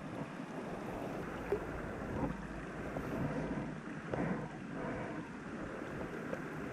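Steady rushing of a small stream, with a few faint knocks.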